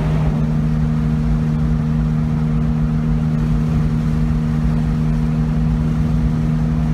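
1969 Jaguar E-Type Series II's 4.2-litre straight-six engine running at a steady highway cruise, heard from the cabin as an even drone over low road rumble.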